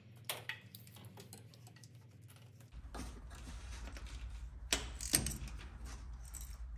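Socket ratchet clicking with sharp metal tool clinks as loose spark plugs in the V8 cylinder head are tightened; two loud clinks near the end. A low steady hum starts a little under halfway through.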